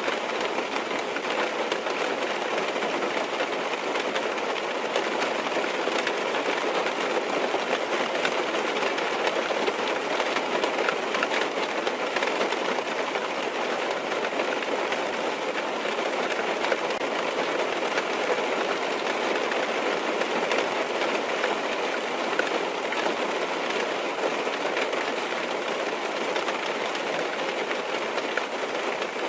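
Steady rain falling on a car's roof and windows, heard from inside the cabin, with scattered ticks of single drops.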